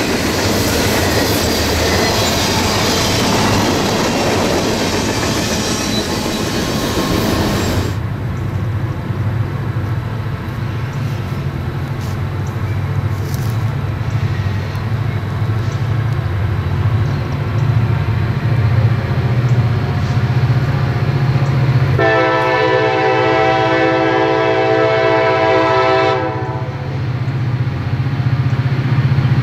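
Freight cars rolling past with a steady roar that cuts off sharply about eight seconds in. Then a diesel locomotive's engine rumbles low and steady as it approaches, and about 22 seconds in it sounds its air horn in one long blast of about four seconds.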